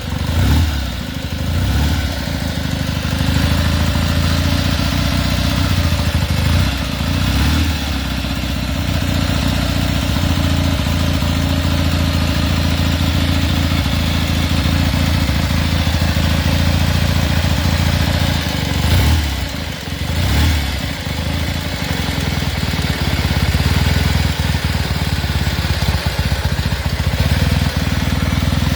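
Velocette 700cc twin, built from two 1930s 350cc KSS engines, running steadily. Its note rises and falls with a few throttle changes, around a second in, around seven seconds and near twenty seconds.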